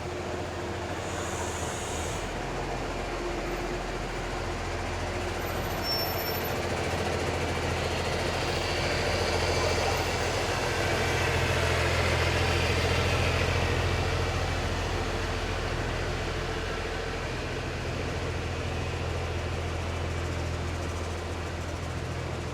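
Low rumble of a passing vehicle over an even hiss, building to its loudest about halfway through and then easing off.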